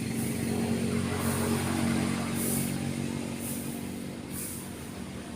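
Engine of a passing road vehicle running steadily, its sound easing off in the second half, over the constant wash of waves on the beach.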